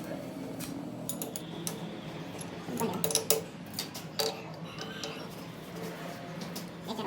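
Scattered light metallic clicks and clinks of metal tools and parts being handled and tapped together, a few with a short ring.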